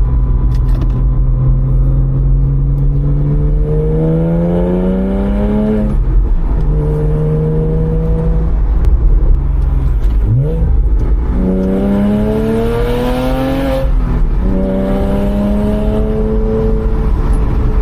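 Porsche 987.1 Boxster flat-six exhaust through Circuit Werks headers, catback and Total Flow mini race mufflers, accelerating hard through the gears: the pitch climbs, drops at each shift about 6, 10 and 14 seconds in, and climbs again. The owner says the mufflers have taken the rasp out of the exhaust note.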